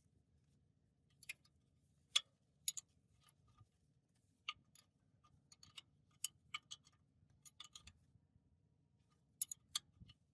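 Light, irregular clicks and taps of small hard parts being handled, a dozen or so sharp ticks scattered over the seconds, some in quick pairs, over a faint low hum.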